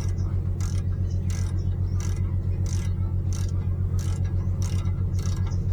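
A steady low mechanical hum with a regular clicking, about three clicks every two seconds.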